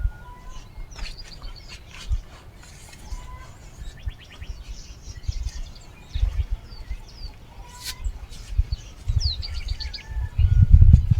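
Small birds chirping in short calls and quick trills, over repeated low rumbling thuds that grow loudest near the end.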